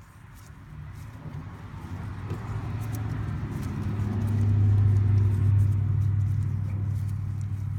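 Water-contaminated gear oil pouring from the front differential drain hole of a Honda Rubicon ATV into a drain pan, building to a steady stream about halfway through. The oil is thin and watery because water got into the differential.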